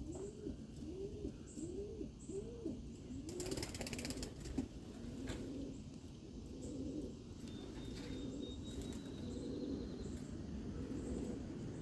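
Domestic pigeons cooing, a repeated rising-and-falling coo about twice a second for the first three seconds. About three and a half seconds in there is a brief burst of wing flapping. Softer, overlapping cooing continues after it.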